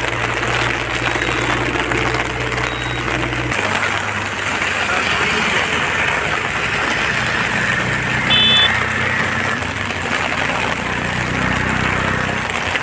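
Road traffic: vehicle engines running, with a steady low hum that shifts pitch a few seconds in. A short, high horn toot sounds about two-thirds of the way through.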